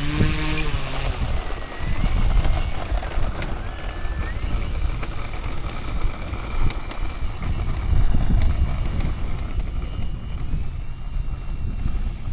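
Electric motor of an E-flite Carbon-Z Cessna 150 RC plane whining, its pitch sliding up and down as the throttle changes, with wind buffeting the microphone.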